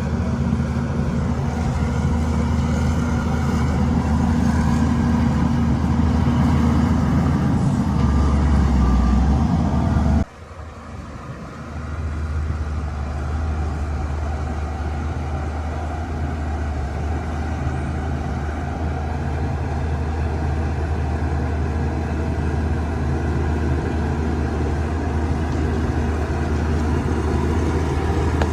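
Shantui DH17-C2 bulldozer's diesel engine running steadily under load while pushing dirt. The sound breaks off sharply about ten seconds in and builds back up over the next two seconds.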